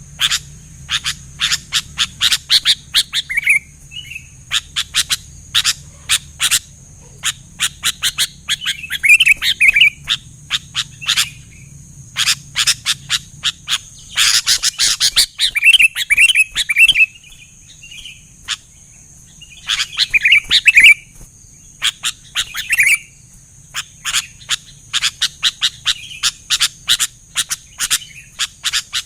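Sooty-headed bulbuls (kutilang) calling in lively, rapid runs of sharp chips broken by short warbling phrases, over a steady high-pitched whine.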